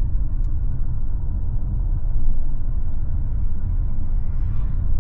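Car driving along a road, a steady low rumble of engine and road noise.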